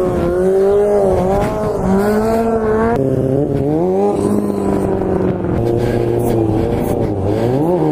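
Motorcycle engine revving under throttle, its pitch rising and falling several times with blips of the throttle, with a sharp rev-up near the end.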